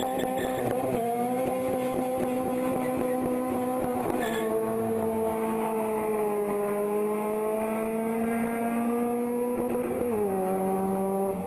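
Honda K20 2.0-litre four-cylinder engine running hard at high revs, with a high, steady tone. Its pitch steps down sharply about four seconds in and again about ten seconds in, sagging and slowly climbing back between.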